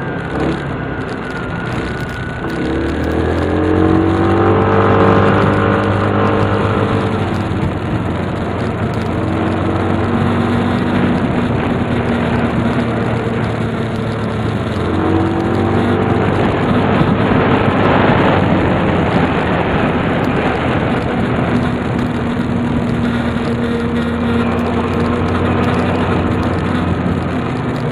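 Tsurugi 150's engine running under way, revving up about three seconds in and again halfway through, its pitch climbing each time before settling into a steady drone.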